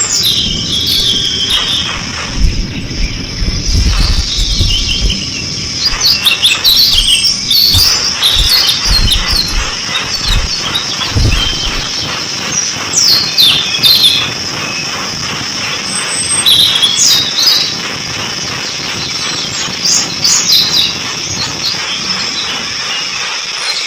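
Bird calling with repeated short, squeaky chirps in clusters, over a steady high-pitched hiss. Low thumps come in the first half.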